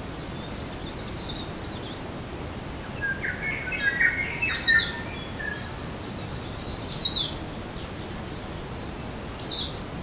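Wild birds calling in forest. A quick run of short chirping notes comes about three to five seconds in, then single short, high calls about seven and nine and a half seconds in, over a steady background hiss.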